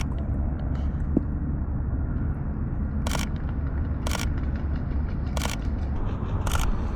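Sony A6400 camera shutter firing four single shots about a second apart, over a steady low rumble.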